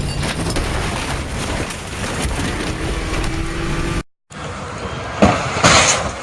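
Steady vehicle and road noise from a moving car. After a brief cut, a car collision: a few sharp, loud impacts about five seconds in.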